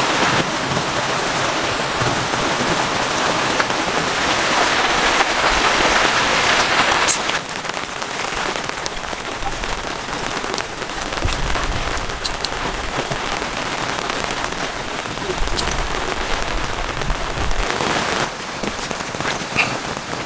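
Heavy rain pouring down steadily, heaviest for the first seven seconds or so and then easing slightly, with low rumbles now and then.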